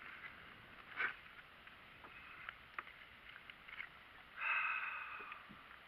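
Handling noises aboard a kayak: scattered clicks and a sharper knock about a second in, then a high-pitched squeak lasting about a second a little past halfway.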